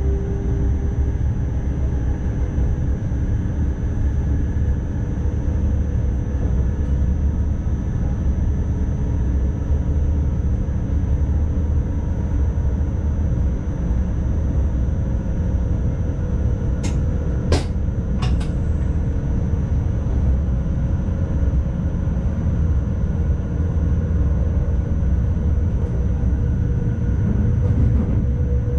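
Cab noise of an NS ICMm electric multiple unit running along the track: a steady low rumble with a constant thin high tone over it, and a few sharp clicks about two-thirds of the way through.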